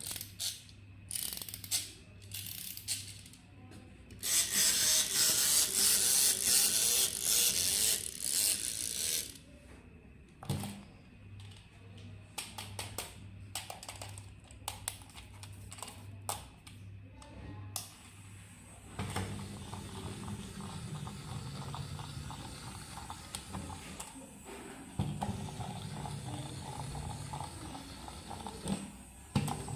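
Clicks and a few seconds of loud rustling as a battery-operated toy is handled. Then, from a little past halfway, the toy's small motor and plastic gears whirr steadily, with a ratcheting mechanical sound.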